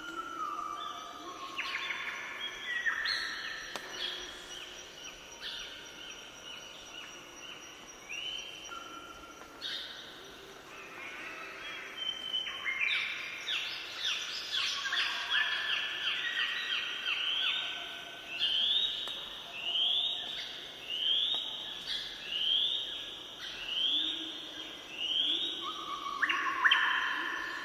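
Several birds singing and calling over one another, in short whistled notes and trills. In the second half one bird repeats the same short rising note about once a second.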